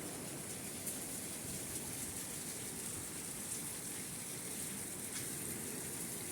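Steady rain falling: a continuous hiss, with a few single drops ticking louder now and then.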